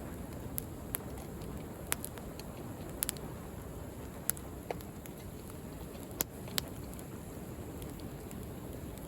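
Wood bonfire crackling, with scattered sharp pops, over a steady low rush of sea waves.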